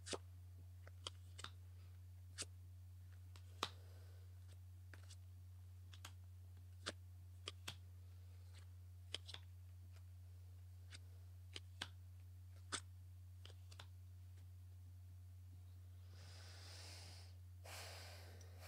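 Faint, scattered light clicks and taps of tarot cards being handled, over a low steady hum, with a soft rustle near the end.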